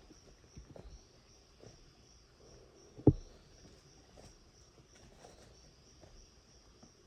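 Insects chirping in a steady high pulse, a few times a second, over forest background, with scattered soft knocks and one dull thump about three seconds in.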